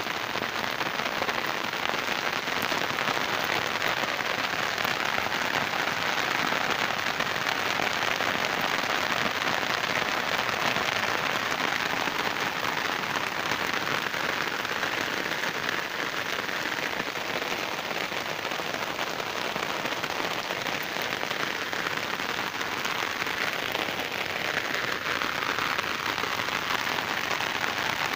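Steady monsoon rain falling on trees, grass and wet ground: a dense, even hiss of many drops that holds level throughout.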